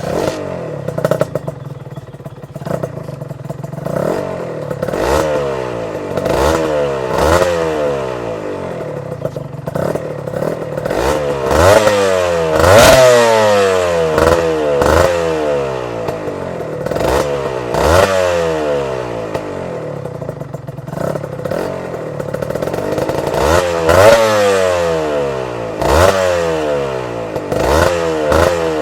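Honda NSR150SP single-cylinder two-stroke engine with an HRC full-system exhaust, revved again and again in quick throttle blips: the pitch jumps up and falls back each time, with a sharp crack at many of the peaks.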